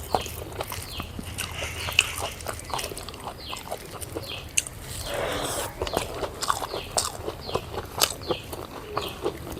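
Close-up eating sounds: chewing and lip-smacking with many small clicks, while chickens cluck in the background.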